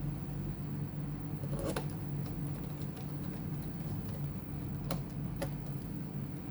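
A steady low hum with a few light, sharp clicks, one near the start and two close together about five seconds in.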